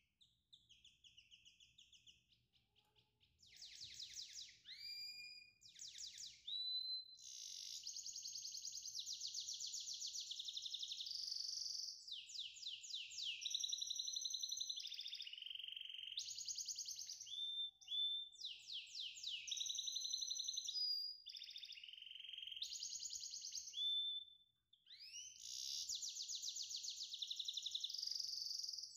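A songbird singing long phrases of fast trilled high notes and quick rising whistles, broken by brief pauses.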